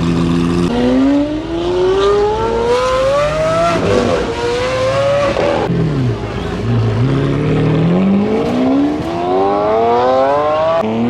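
Car engine accelerating hard, its pitch climbing in long pulls and dropping back between them, as it shifts up through the gears or lifts off, then pulling again. It starts from a steady lower note and rises anew near the end.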